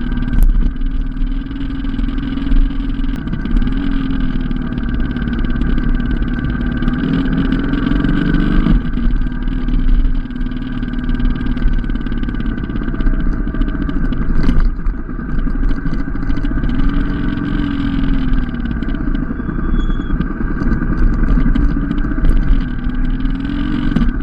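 Motorcycle engine heard from on the moving bike, its revs rising and falling repeatedly as it rides a steep, twisting single-track pass, over a steady low rumble.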